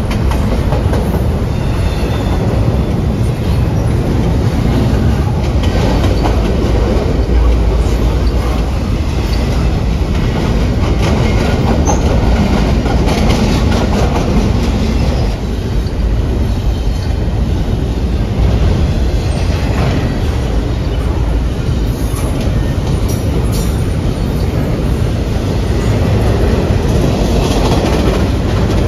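Double-stack intermodal freight train's well cars rolling past close by: a steady, loud rumble of steel wheels on the rails, with clacking over the rail joints.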